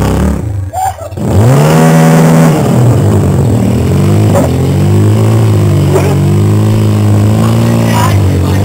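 Off-road motorcycle engines revving. After a brief lull about a second in, the pitch climbs and then keeps rising and falling with the throttle.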